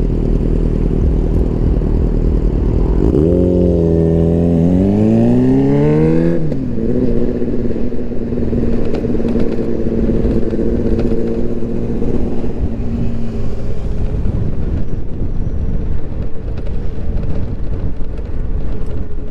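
Steady wind and road rumble of riding in city traffic. About three seconds in, a motor's pitch climbs for a few seconds as it accelerates, then cuts off, leaving a fainter steady hum.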